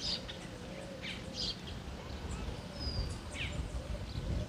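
Birds chirping: several short, separate calls spread through, over a steady low outdoor rumble.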